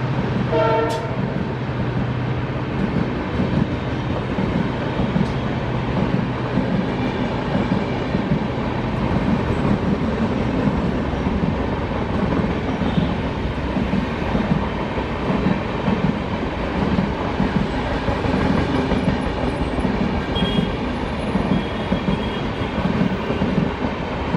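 LHB passenger coaches of an express train rolling past at speed, their wheels clattering over the rail joints in a steady, even rhythm. A short horn note sounds near the start.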